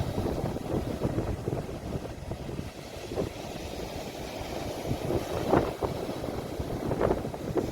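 Sea waves breaking and washing on the shore, a steady low rumble of surf with wind buffeting the phone's microphone.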